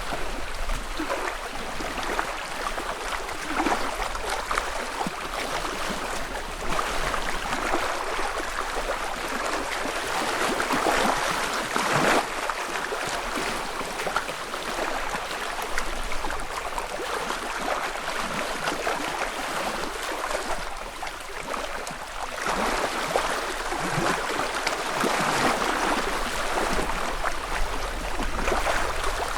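Small wavelets lapping and splashing against a lakeshore, a continuous patter of little slaps that swells and eases every few seconds.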